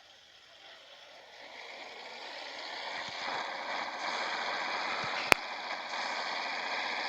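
Scania 111 truck under way: the driving noise builds over the first few seconds and then holds steady. A single sharp click comes about five seconds in.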